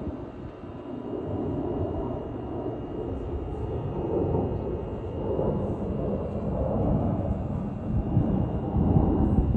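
Boeing 787-10 Dreamliner's GEnx turbofan engines rumbling as the airliner flies over, a deep, wavering noise that swells and fades. There are a few stronger low thumps near the end.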